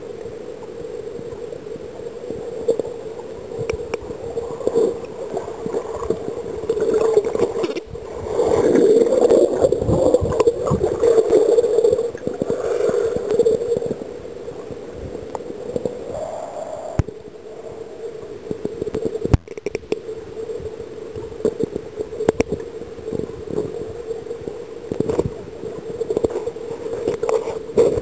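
Water gurgling and sloshing close to the microphone, in a steady rushing wash that swells louder about eight seconds in.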